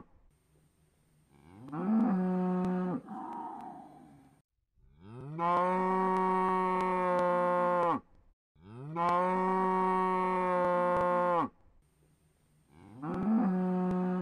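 Cow mooing four times. A short call rises in pitch about a second and a half in, two long steady moos of about three seconds each follow, and another short rising call comes near the end.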